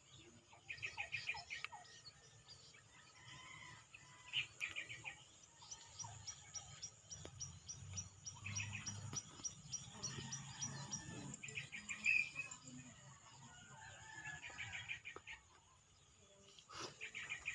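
Birds calling: short, rapid chattering trills repeated every few seconds, with a run of fast high ticks in the middle.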